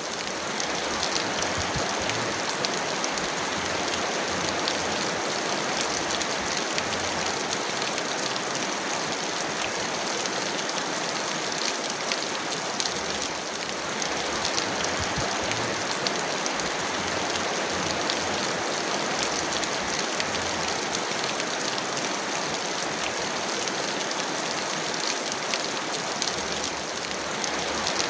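Heavy rain falling steadily: a dense, even hiss with many fine spattering drop ticks, and no thunder.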